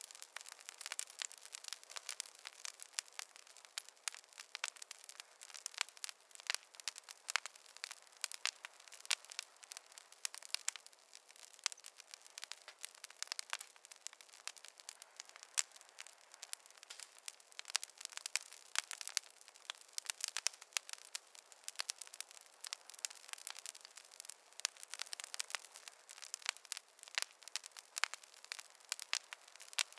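Wood fire crackling in a fireplace: a steady hiss with many small sharp pops and snaps coming irregularly, several a second, and no low rumble.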